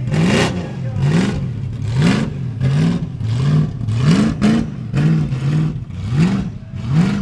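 Supercharged V8 in a Holden VL Commodore revving up and falling back again and again, more than once a second, as the car holds a burnout with its rear tyres spinning in smoke.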